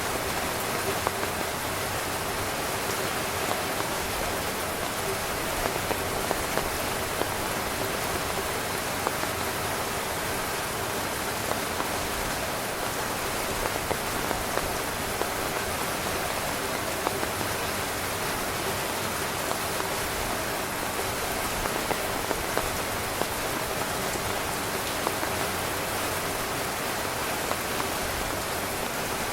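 Steady rain falling on a tent: a continuous hiss with scattered sharp taps of single drops.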